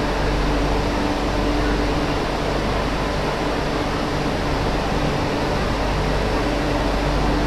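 Cabin noise of an MTR Q-train running between stations: a steady rumble and hiss of the moving train with a low hum that fades in the middle and comes back near the end.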